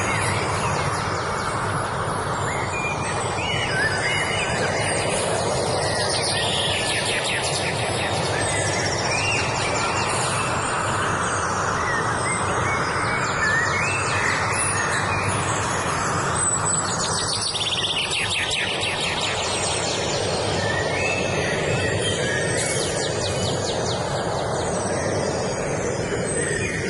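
Several birds singing, with short stepped phrases and rapid trills repeating every few seconds, over a steady low rushing background.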